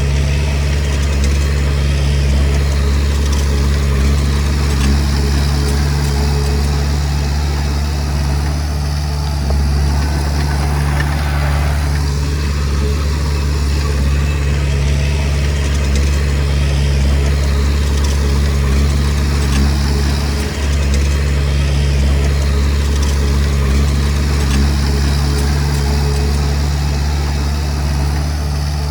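Diesel engine of a Komatsu D20P bulldozer running steadily with a deep, even hum.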